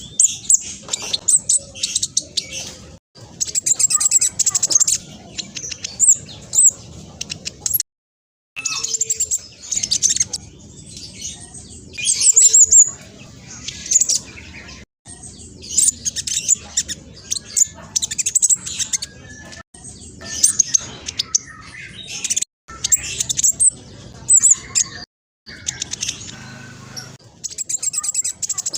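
Black sunbird singing fast, high twittering and chirping runs in rapid bursts, broken every few seconds by brief dead-silent gaps.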